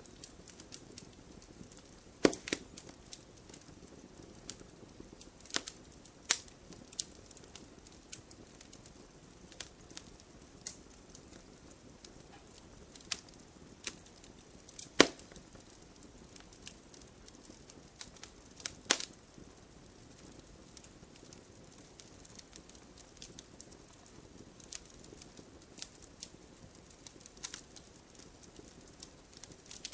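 Wood fire burning, with a low steady hiss and scattered sharp crackles and pops at irregular intervals, the loudest a little after two seconds, around six, fifteen and nineteen seconds in.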